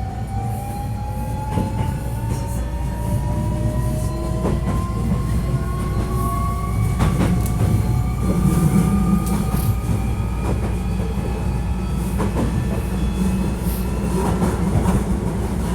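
Hankyu 1300 series electric train running, heard from inside the car: a low rumble under several whining tones that rise slowly in pitch as the train gathers speed, with scattered clicks from the wheels on the rails.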